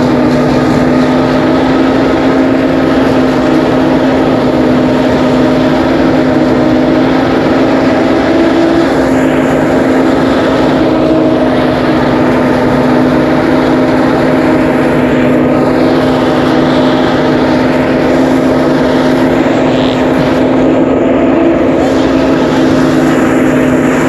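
Steady, loud drone of a motor-driven rice threshing machine running at constant speed, holding one unchanging pitch throughout.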